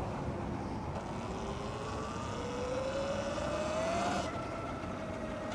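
Sur-Ron X electric dirt bike's motor whining, climbing in pitch as the bike speeds up for a few seconds, then holding a steady note. A steady low rush of wind and road noise runs underneath.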